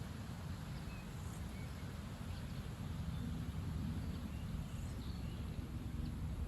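Strong wind buffeting the microphone: a gusting low rumble that swells and eases. A few faint short high chirps are heard over it.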